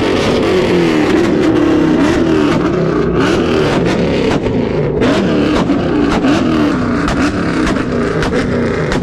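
Car engine revving hard and repeatedly, its pitch sweeping up and down in quick rises and falls, with scattered sharp cracks.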